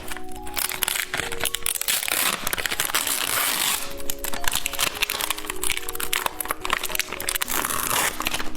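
Plastic candy wrapper crinkling and rustling with sharp crackles, heaviest a couple of seconds in, over background music with a simple melody.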